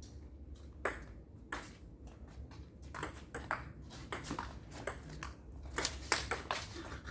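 Table tennis rally: the ball clicking sharply off bats and table, a few separate hits at first, then a quick run of hits from about three seconds in.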